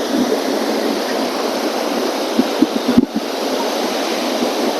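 Stormy sea surf breaking and washing on the beach in a strong gale, a steady rushing noise, with the wind buffeting the microphone in a few low thumps near the middle.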